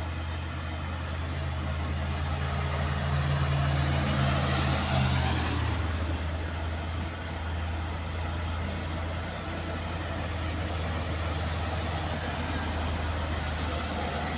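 A heavy truck's diesel engine pulling up a steep climb as it passes, growing louder to a peak about four to five seconds in and then easing off. A steady low hum runs underneath.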